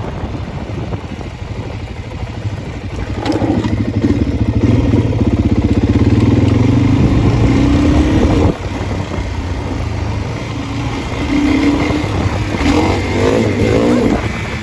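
Dirt bike engine revving hard under throttle and climbing in pitch for several seconds, then cut off sharply about eight and a half seconds in. It picks up again and revs a second time near the end.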